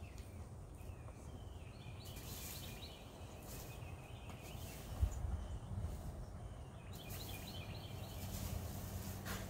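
Two short bursts of rapid bird calling, about five seconds apart, over a steady low outdoor rumble, with a single thump about halfway through.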